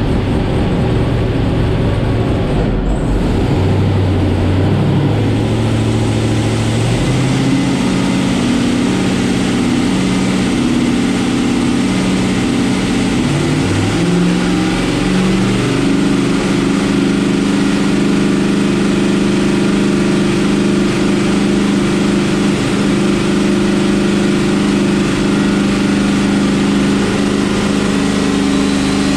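Twin-turbo LS V8 engine of a drag car running on a chassis dyno, loud and steady. Its engine speed steps up in stages over the first half, dips briefly about halfway, then holds at one steady speed.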